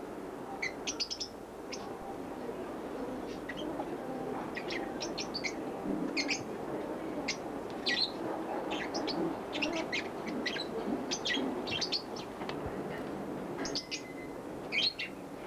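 Small birds chirping, a quick run of short, high chirps that keeps going with brief gaps.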